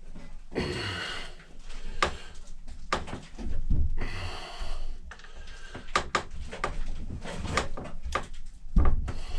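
Hand-tool work on an old axe head: irregular knocks and clicks with short bouts of scraping, as a stuck piece is worked at without coming free.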